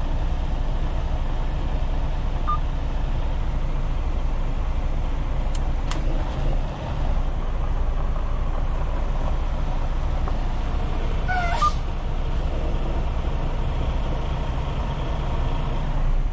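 Semi truck's diesel engine idling steadily, heard from the cab, with a single short beep early on, a click about six seconds in, and a short beep with a brief chirp about two-thirds through.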